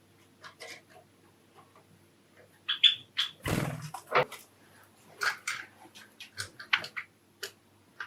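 Java sparrows giving short, scattered chirping calls, a dozen or so at irregular spacing. About three and a half seconds in there is a brief noisy rush.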